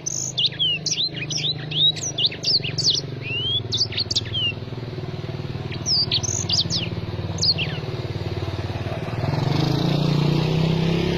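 Small songbird singing rapid twittering phrases of sharp, down-slurred chirps, in two bursts with a pause between. Under it runs a steady low hum like a motor, which grows louder after about nine seconds.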